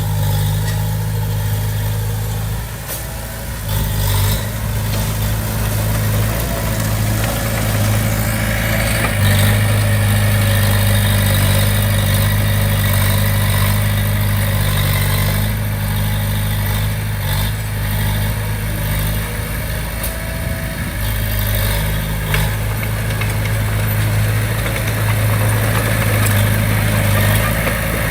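Komatsu D20P bulldozer's diesel engine running steadily at a low, even speed.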